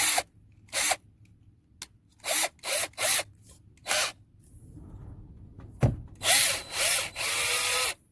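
Power drill run in short trigger bursts, about six quick spurts in the first four seconds, then a knock and a longer run of nearly two seconds near the end.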